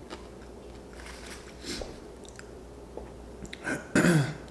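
A person chewing and biting food close to the microphone, with wet mouth sounds. A louder, longer mouth sound comes near the end.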